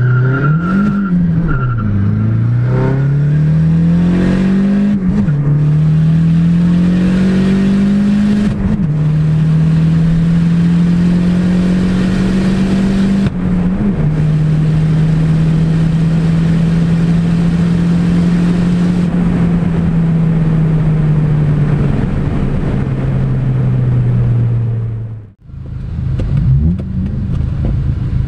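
Dodge SRT-4's turbocharged 2.4-litre four-cylinder at full throttle, heard from inside the cab, climbing through the gears with upshifts about five and nine seconds in. The engine note then holds high and slowly falls as the car slows, with steady wind and road noise. It breaks off abruptly near the end, then revs rise and fall at lower speed.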